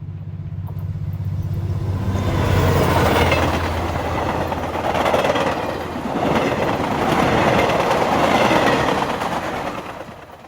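Freight train passing: a diesel locomotive's engine drone at first, then the noise of the wagons' wheels on the rails, swelling twice and fading away near the end.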